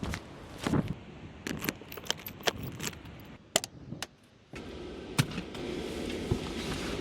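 Keys jangling, with a run of sharp clicks and knocks, then a steady running noise that comes in about four and a half seconds in.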